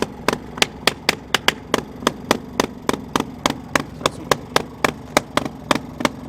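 Single-cylinder BSA Trials motorbike engine idling, its exhaust giving sharp, even pops about three to four times a second over a low rumble. It sounds healthy, with good compression.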